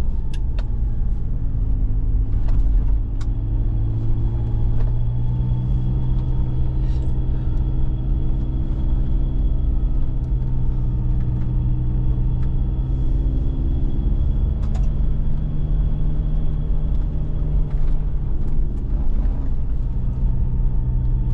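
A 4x4's engine and road noise heard from inside the cab while driving. It is a steady low drone whose pitch shifts as the engine speed changes, once about four seconds in and again around fifteen seconds, with occasional light clicks and knocks.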